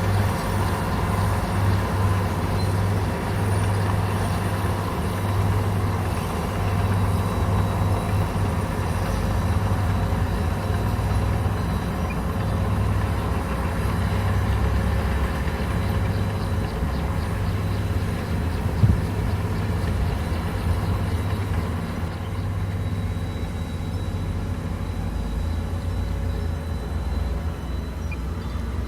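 Komatsu bulldozer's diesel engine running steadily with a deep hum, and a single sharp knock about two-thirds of the way through.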